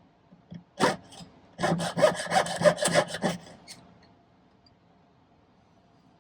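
Jeweler's saw cutting into a sterling silver wire link: one short stroke about a second in, then a quick run of short strokes, roughly five a second, that stops before the halfway point.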